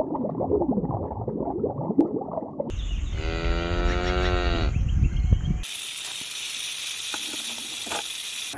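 A cow mooing: one long, low call of about three seconds in the middle, its pitch bending down at the end. Before it comes a rough, rumbling, scraping noise, and after it a steady hiss.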